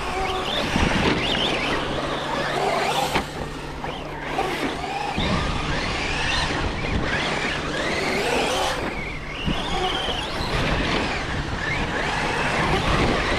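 Electric motors of radio-controlled trucks whining as they are revved up and down, the pitch rising and falling over and over, with tyres churning over muddy ground.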